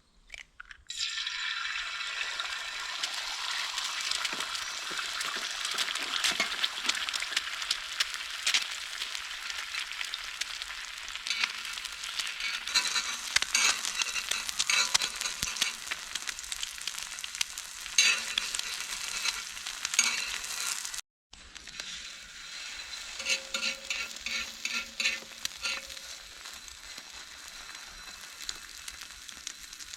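Food sizzling and frying in a pan, a steady hiss dotted with crackles and pops. It cuts off suddenly for a moment about 21 seconds in, then carries on a little quieter.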